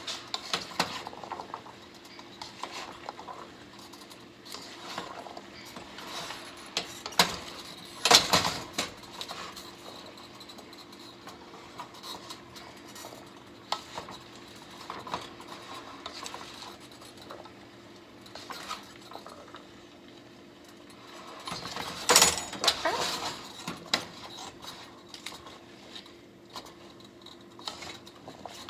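Spoon and dishes clinking while a soy sauce and seasoning mixture is stirred in a bowl: scattered light taps, with louder clattering about 8 seconds in and again about 22 seconds in.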